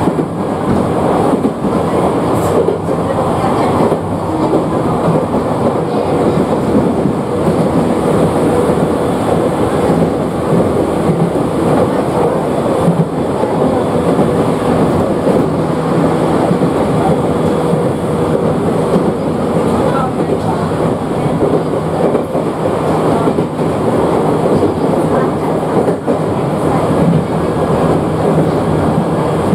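Inside a Chichibu Railway 7500-series electric train car while it runs: a steady rumble of wheels on the rails with a faint hum and occasional clacks.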